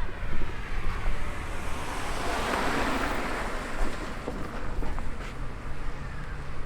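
A rushing noise that swells and fades over a few seconds, peaking about two and a half seconds in, over a steady low wind rumble on the microphone.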